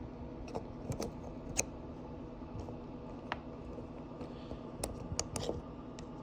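Scattered small clicks and taps of a twist-grip throttle and its plastic housing pieces being handled and fitted together, about seven sharp clicks with a cluster near the end, over a low steady hum.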